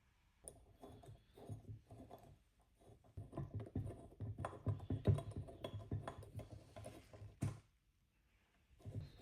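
Irregular clicks, taps and knocks of metal espresso-machine parts being handled and fitted together during reassembly of the boiler, with one sharper knock near the end.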